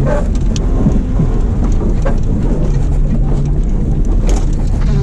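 Heavy, steady rumble of a car driving hard across a rough dirt paddock, with scattered ticks and a faint engine note underneath.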